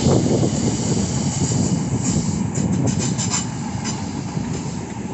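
Class 313 electric multiple unit running past along the platform, a steady rumble slowly fading as it moves away, with a few sharp wheel clicks about halfway through.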